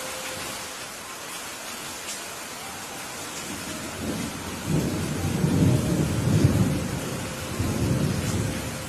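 Steady rain falling, with a roll of thunder rumbling in about halfway through, swelling twice and fading out near the end.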